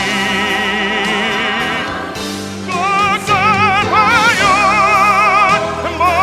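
Sung hymn with instrumental accompaniment: a long held note with vibrato, then a higher sustained melody line from about three seconds in.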